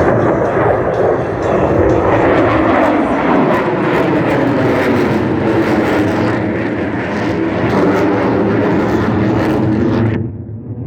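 Blue Angels jet aircraft flying past: a loud, steady rushing jet noise that sinks slightly in pitch over the first few seconds. Its higher part cuts off suddenly near the end.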